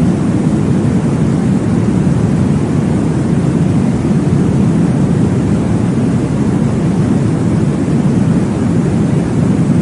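Steady deep whooshing noise, heaviest in the low range and unchanging: a womb-sound white-noise track for baby sleep.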